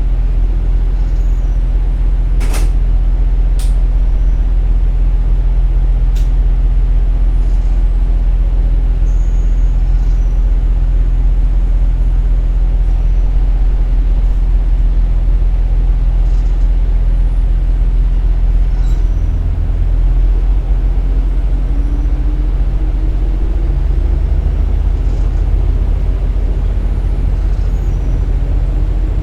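KiHa 47 diesel railcar heard from inside, its diesel engine droning steadily with wheel-on-rail running noise and a couple of sharp clicks early on. About two-thirds of the way through the engine note changes and a rising tone follows.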